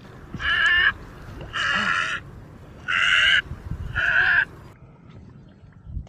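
A bird giving four loud, harsh calls, each about half a second long, roughly one a second.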